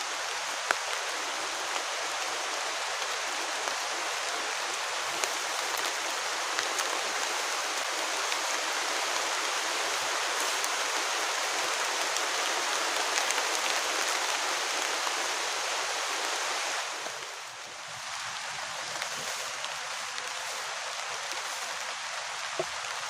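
Heavy rain pouring down steadily, a dense hiss with a few sharper drop ticks; it dips briefly about seventeen seconds in, then carries on.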